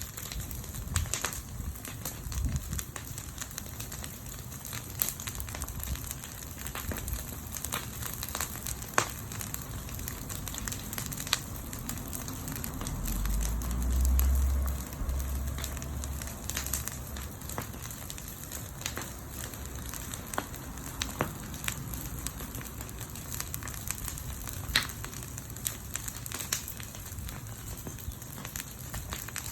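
Wood campfire burning, crackling with scattered sharp pops over a steady hiss. A brief low rumble swells and fades about halfway through.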